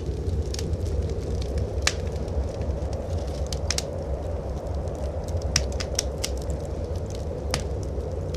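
Wood fire in a fireplace crackling, with scattered sharp pops, over a steady low rumble of blizzard wind.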